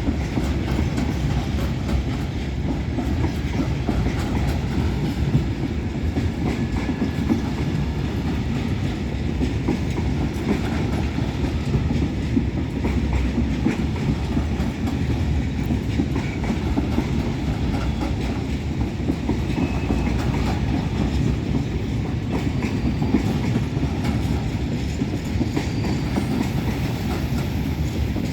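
Railcare train hauled by two TMZ locomotives rolling past at close range, a steady low rumble with wheels clattering over the rail joints.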